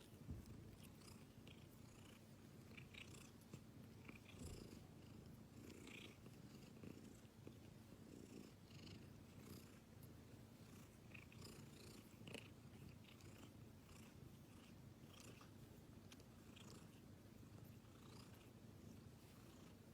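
A domestic cat purring steadily and quietly, with faint small clicks and ticks over the low rumble.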